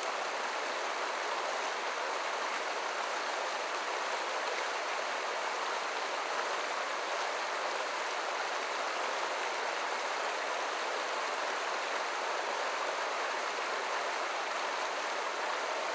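Creek water rushing and babbling, a steady even sound.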